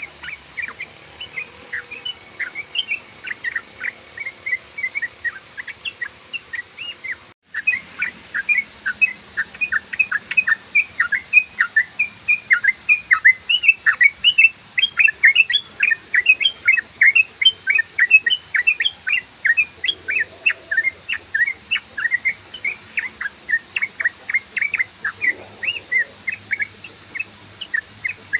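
Yellow-vented bulbul (trucukan) singing a rapid, unbroken string of short chirping notes, several a second. The song breaks off for an instant about seven seconds in, then carries on denser and louder.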